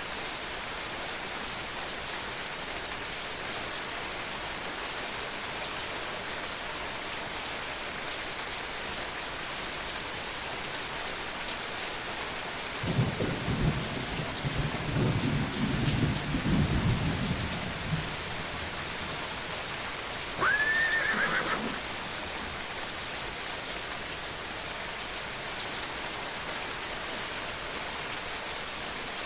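Steady rain falling, with a low rumble of thunder about thirteen seconds in that lasts about five seconds. About twenty seconds in, a horse gives one short whinny that rises sharply and then falls.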